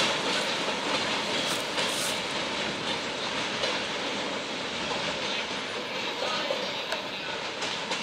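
Railroad cars rolling along the track: a steady rumble of wheels on rail with a few sharp clicks from the rail joints, slowly fading.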